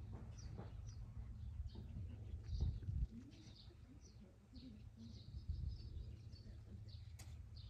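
Small birds chirping: short high chirps repeating every half second or so, over a steady low background rumble.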